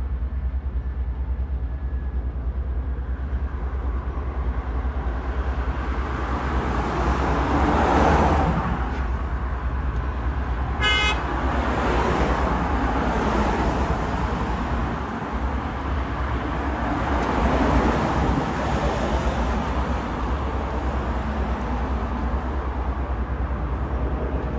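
Road traffic passing in waves over a steady low rumble, with a short car horn toot about eleven seconds in.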